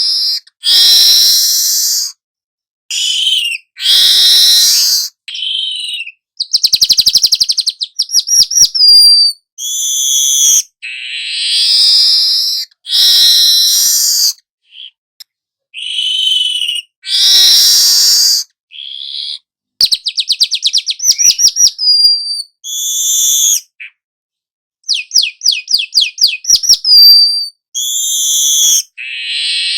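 Young weaver bird (manyar) singing its long continuous song. Wheezy, buzzy phrases alternate with fast runs of rapid dry clicking notes that rise in pitch, with brief pauses between phrases.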